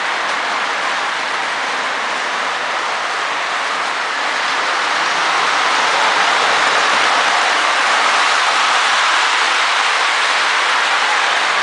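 Lionel postwar O-gauge model locomotive running along the track: a steady whir of the electric motor and gearing mixed with wheel and rail noise, getting a little louder about five seconds in.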